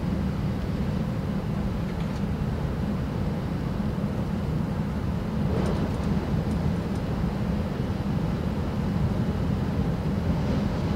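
Steady low rumble and hiss inside the passenger cabin of an E6 series Komachi shinkansen running at speed on the Tohoku Shinkansen.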